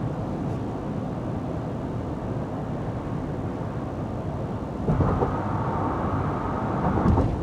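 Road noise inside a moving car: tyres and engine humming steadily, getting somewhat louder about five seconds in.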